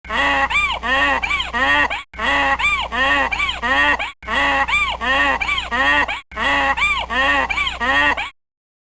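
A goose honking: the same two-second recording of about four rising-and-falling honks played four times in a row with brief gaps, stopping shortly before the end.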